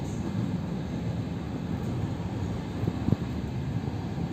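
Suburban electric train running, heard from inside the carriage: a steady low rumble, with one short knock about three seconds in.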